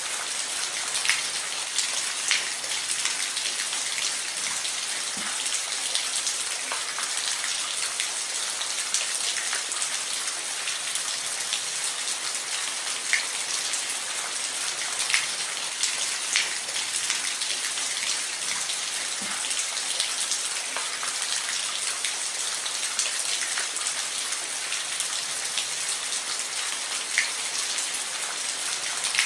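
Steady rain falling on a roof: an even hiss of rainfall with scattered louder individual drops ticking on the surface.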